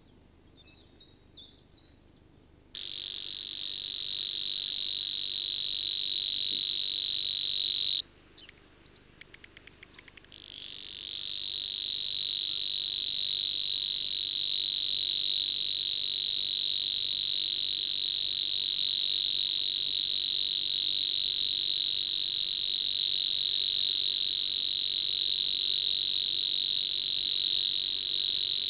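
A steady, high-pitched animal buzzing call that starts about three seconds in and breaks off at about eight seconds. In the gap and at the start, short bird chirps sound. The buzzing then resumes a little after ten seconds and carries on.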